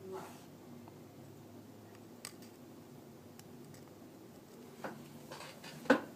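A few faint, scattered small clicks and taps from handling tiny iPhone 4S internal parts and small tools during repair, with the loudest click near the end.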